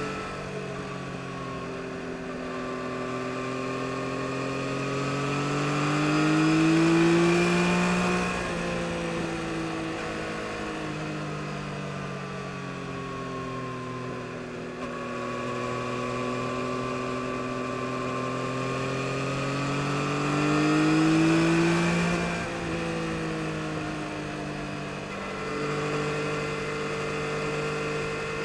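2022 Yamaha MT-09 SP's inline three-cylinder engine on the road, its note climbing and getting louder for several seconds in two pulls, each ending about 8 and 22 seconds in with a drop in pitch as the throttle closes, then winding down slowly before the next.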